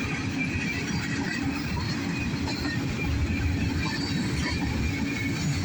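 Freight train cars rolling past on the track, a steady low rumble.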